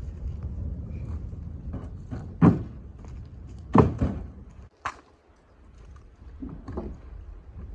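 Three heavy thunks, the second the loudest, over a steady low rumble.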